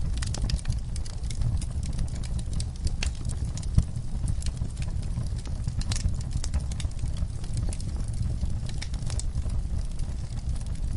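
Wood fire burning in a fireplace: logs crackling with frequent sharp pops over a steady low rumble, one louder pop about four seconds in.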